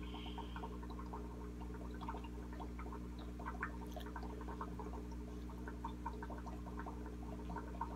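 Close-up chewing of soft, moist chocolate cake, with scattered small wet mouth clicks and light taps of a metal fork on a plate, over a steady low hum and faint water trickle from the fish tank.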